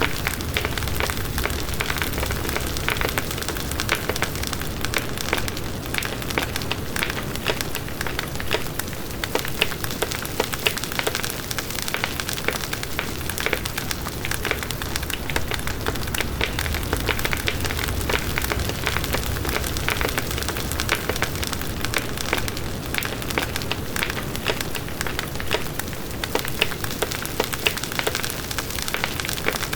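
Campfire burning steadily: a continuous crackle of many small irregular pops and snaps over a low rumble of the flames.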